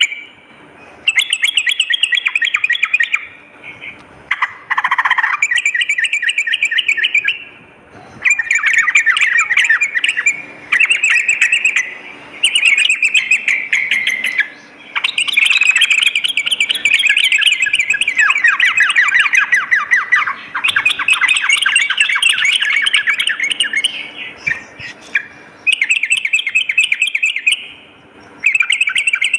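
Yellow-vented bulbul (trucukan) singing in quick chattering trilled phrases, one after another with short pauses between.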